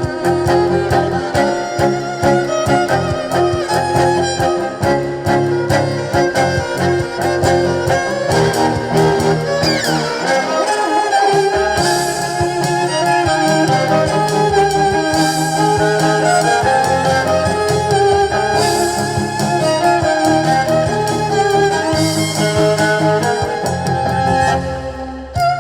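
Live band music with a bowed-string, violin-like lead over bass and a steady beat, dipping briefly near the end.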